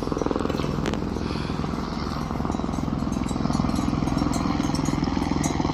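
Helicopter rotor chopping in a fast, steady pulse, growing a little louder about halfway through.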